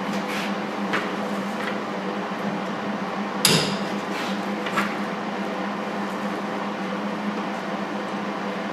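MIG welder arc crackling steadily as tacks are laid on thin sheet metal, with a few sharp clicks or knocks, the loudest about three and a half seconds in.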